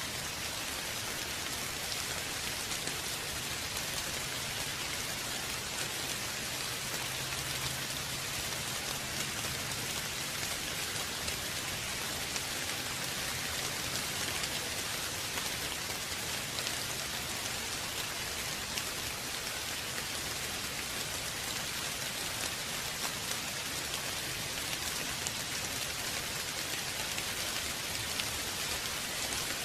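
Steady rain falling on a surface, an even hiss of many drops with no change in intensity.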